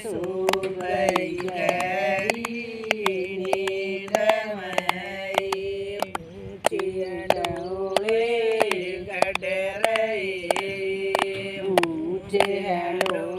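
Singing of a Haryanvi devotional folk bhajan, with long held, wavering notes over sharp rhythmic beats about three a second.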